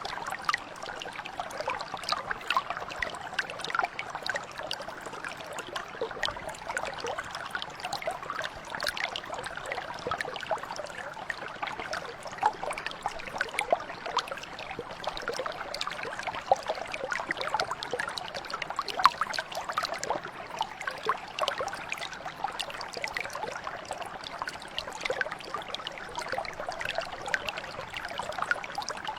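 A small stream flowing, a steady babble of water with many small irregular splashes and trickles.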